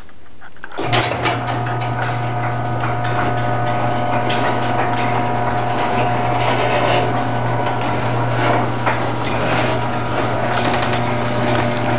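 Electric garage door opener running as the door opens: a steady motor hum with the door rattling and clicking along its tracks. It starts abruptly about a second in.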